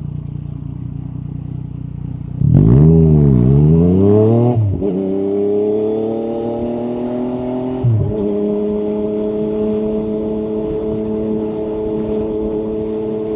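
Yamaha MT-09 SP's inline three-cylinder engine through an Akrapovic carbon exhaust, running low and then accelerating hard about two and a half seconds in. The pitch climbs through gear changes near five and eight seconds, then holds a steady note.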